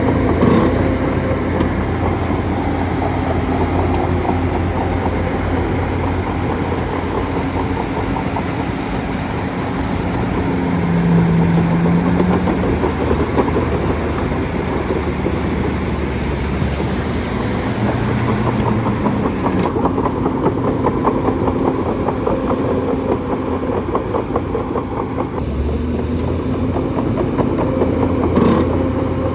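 Bulldozer's diesel engine running steadily, its note stepping up and down a few times as the load or throttle changes. There is a sharp knock about half a second in and another near the end.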